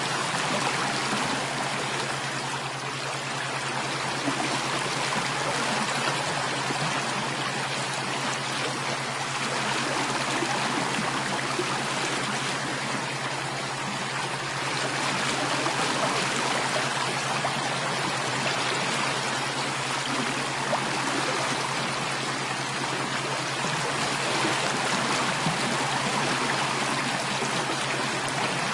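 Running water of a stream, flowing steadily without a break.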